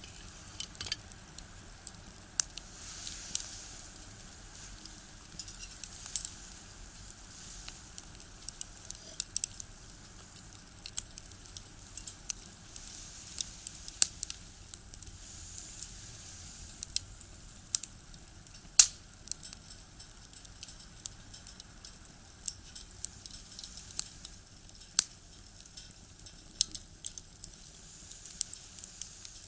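Wood fire crackling in a box stove: irregular sharp pops and snaps over a soft hiss, with one louder snap a little past halfway.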